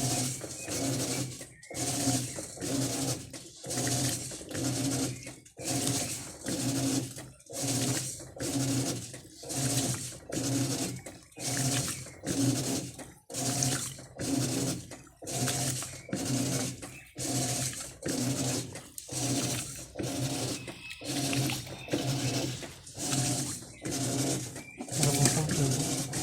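Electrolux LT12 top-loading washing machine agitating: the motor hums and the water swishes in short strokes about once a second, starting abruptly.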